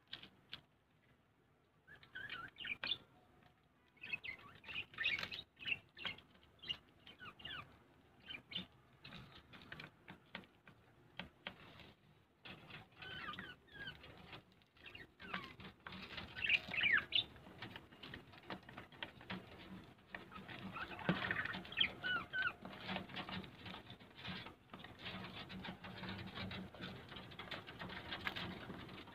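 Small birds chirping and squeaking in short, quick calls, with many small clicks and taps in between. The sound gets busier from about halfway on.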